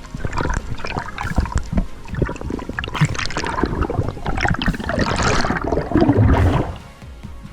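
Water sloshing and gurgling close to a waterproof action camera at or just under the surface, with bubbling and splashing. It drops away about a second before the end.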